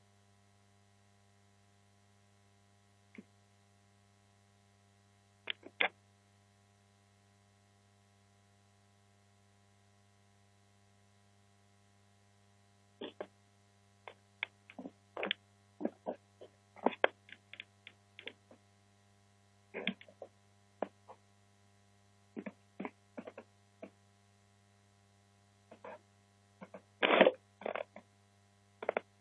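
Steady low electrical hum with irregular short knocks and clicks. The knocks are sparse at first, come often from about halfway, and are loudest near the end.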